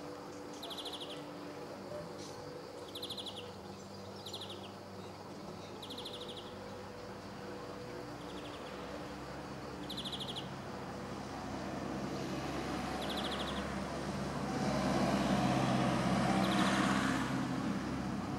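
Male European greenfinch singing short, rapid trills, one every second or two. Under them runs a steady low engine hum that swells near the end.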